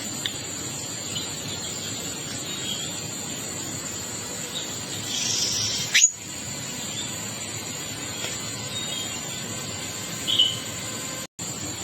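Wild birds giving short calls over a steady high insect drone, with one loud call sweeping down in pitch about six seconds in. The sound cuts out briefly near the end.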